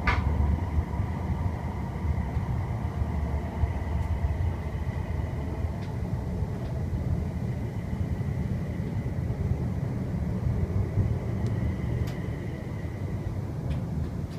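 Class 350 Desiro electric multiple unit running, heard inside the passenger saloon: a steady low rumble with a faint high steady whine. There is a sharp click right at the start and a few faint ticks later on.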